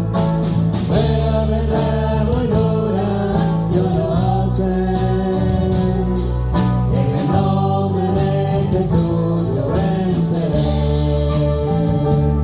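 Live church worship music: a band playing a slow worship song with voices singing over sustained chords, a steady bass and an even beat.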